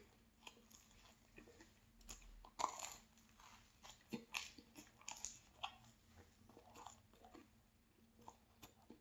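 A person chewing a pastry close to the microphone, with soft irregular crunches and mouth clicks; the loudest bite comes about two and a half seconds in.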